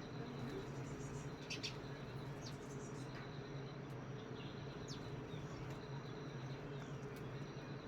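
Small birds giving a few short, sharp high chirps now and then while feeding on grain, over a steady low hum and a thin, continuous high-pitched drone.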